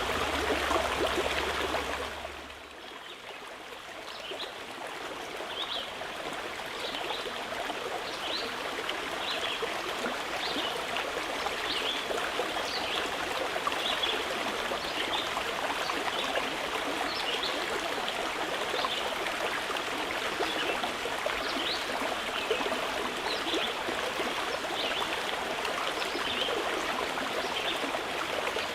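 A mountain river flowing steadily, with a small bird repeating short high chirps about once a second over the water. The water sound dips about two seconds in, then comes back up.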